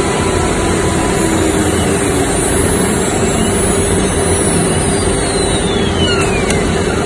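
A CNC router running with a loud, steady mechanical noise and a constant low hum. From about two and a half seconds in, a thin high whine falls steadily in pitch, like the spindle winding down.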